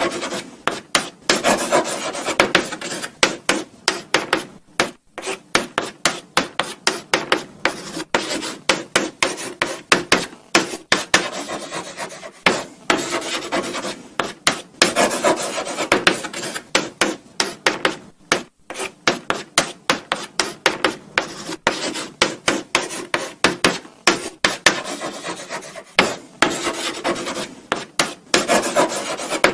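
Chalk writing on a blackboard: a steady run of short scratchy strokes and taps with brief pauses between words.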